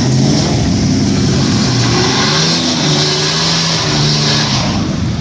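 Car engine revving hard and loud, its pitch climbing at the start, then held high and stepping up and down, with a strong hiss above it.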